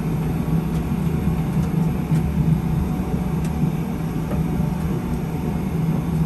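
Steady low rumble of simulated flight noise in a Boeing 737 flight simulator cockpit: engine and airflow sound with a constant low hum.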